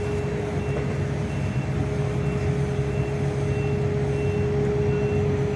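Heavy diesel machinery running steadily, with a constant whine over the low engine rumble, while a back-up alarm gives a short high beep about every 0.7 seconds.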